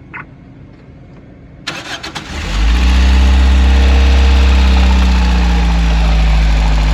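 Toyota Corolla XLi engine cranked and started about two seconds in, then running loud and steady at idle.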